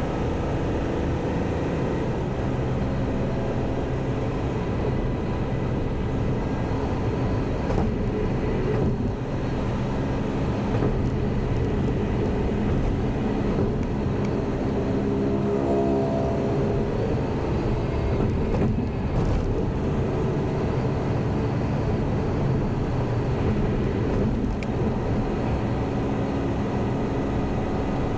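Semi truck's diesel engine running while driving, with steady road noise; the engine note shifts in pitch about halfway through.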